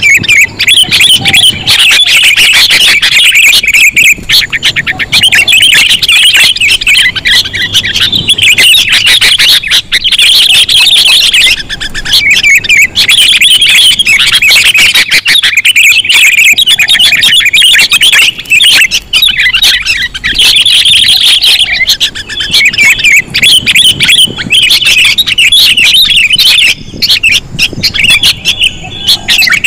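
Sooty-headed bulbuls (kutilang) calling, a loud, continuous run of rapid chirping calls with only brief gaps, the kind of bulbul chatter played as a trapping lure.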